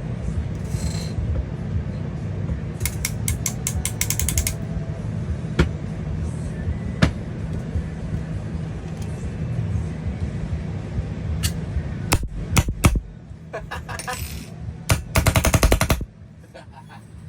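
Valken Proton electronic paintball marker dry-firing on air: a quick string of shots, then several single shots, then a fast rapid-fire string near the end. A steady fan hum runs underneath.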